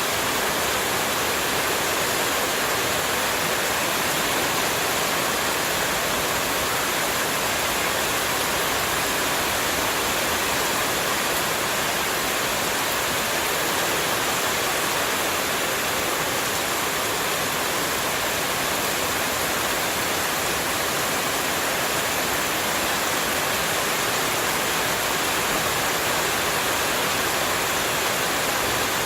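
Running water making a steady, even rushing hiss with no change in level or pattern, played as white noise.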